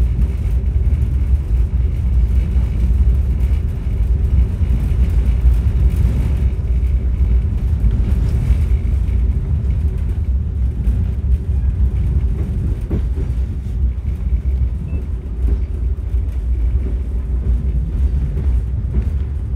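Passenger train under way, heard from aboard: a steady deep rumble of wheels on rail and carriage running noise, with faint steady tones above it.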